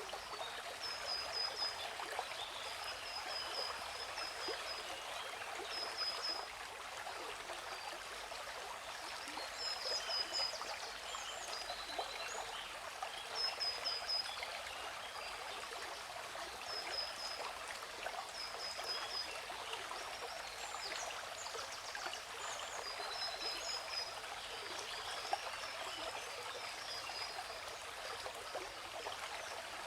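Waterfall's rushing water, a steady hiss, with birds chirping over it: short runs of quick high notes that come back every few seconds, and scattered other chirps.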